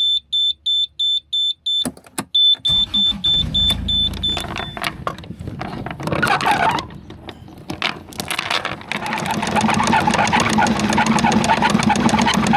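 A sailing yacht's inboard engine being started. The engine panel's warning buzzer beeps about four times a second, the engine cranks and catches a few seconds in, and the beeping stops a couple of seconds later, as the warning clears once the engine is running. The engine then runs steadily, louder from about nine seconds in.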